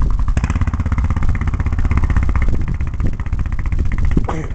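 Arctic Cat 650 H1 ATV's single-cylinder four-stroke engine running hard through an HMF slip-on exhaust. The firing pulses are rapid and the throttle rises and eases under load.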